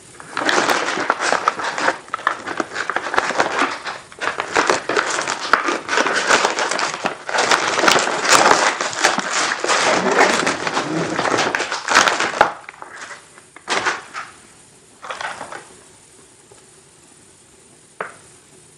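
Plastic cookie packaging crinkling and crackling as it is handled and opened, dense and continuous for about twelve seconds, then a few short separate rustles.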